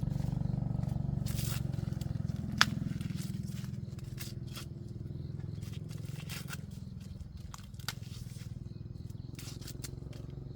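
A small motor running steadily, with scattered sharp clicks and snaps over it, the loudest about two and a half seconds in.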